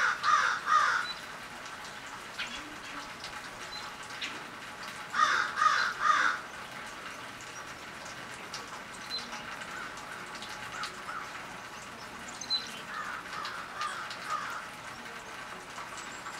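A bird calling outdoors in short runs of about three calls each, three runs in all, the last one fainter.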